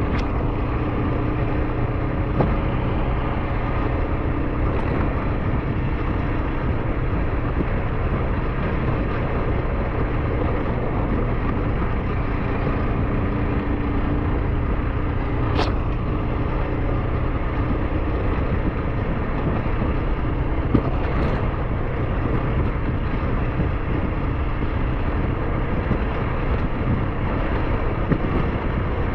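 SYM NH-T 200 motorcycle under way: a steady engine drone mixed with wind and road noise, holding an even speed, with a faint tick now and then.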